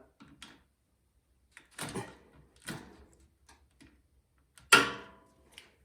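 Hand tools and metal parts knocking and clinking during disassembly of a small engine. There are a handful of separate knocks; the loudest, about five seconds in, is a clank that rings briefly.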